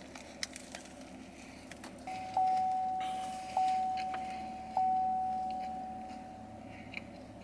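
An electronic chime dings three times at one steady pitch, about a second apart, each ding fading slowly. A few faint clicks come before it.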